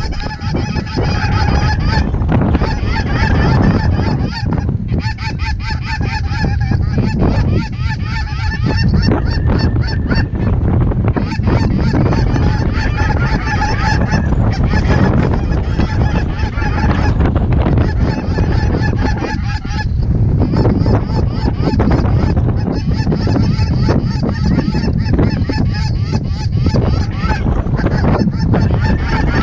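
A large flock of geese calling without pause, many honks and yelps overlapping, over heavy wind buffeting the microphone.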